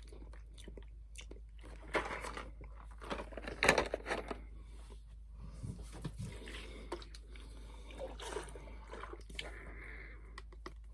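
A person chewing a mouthful of Big Chewy Nerds, a chewy candy that sticks to the teeth: irregular wet smacks and clicks, loudest about two to four seconds in.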